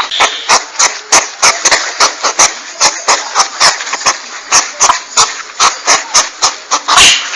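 Porcupine call recording used as a hunting lure: a fast, even series of short, sharp hissing puffs, about three a second.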